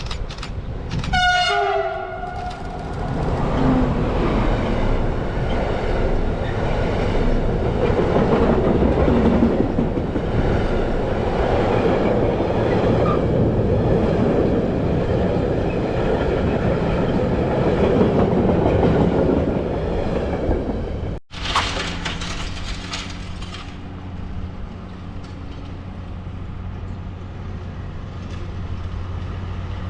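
A train horn gives a short blast about a second in, then a passing train's wheels rumble steadily on the rails for about twenty seconds. The sound cuts off abruptly and gives way to a quieter, steady low hum.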